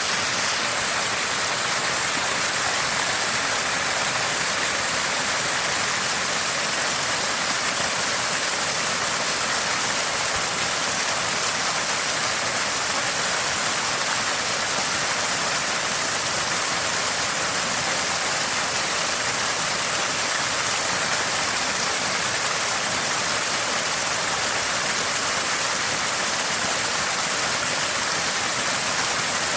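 Small spring gushing and splashing, a steady, constant gurgle of running water.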